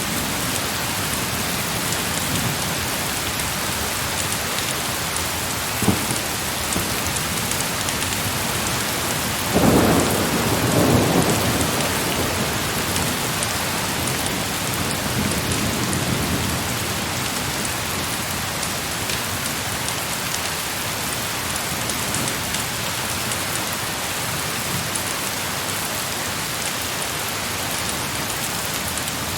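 Heavy rain falling steadily, with a rolling rumble of thunder about ten seconds in and a fainter one a few seconds later. There is one sharp crack a few seconds before the first rumble.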